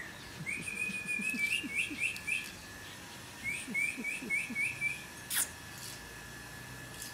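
A bird chirping in two quick runs of short rising notes, about five a second, with a sharp click about five seconds in.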